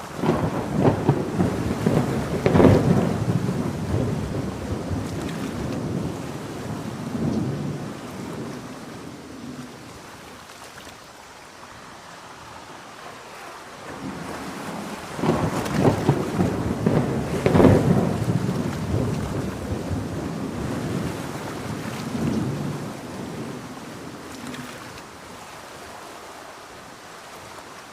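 Two peals of thunder about fifteen seconds apart, each a sharp crackle that rolls away over several seconds, over steady heavy rain.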